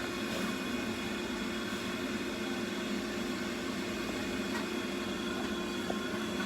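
Steady mechanical hum with a low held tone over an even hiss, and a faint tick or two.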